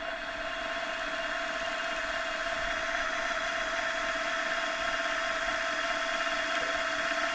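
Milling machine running steadily, a constant motor whine over an even hiss.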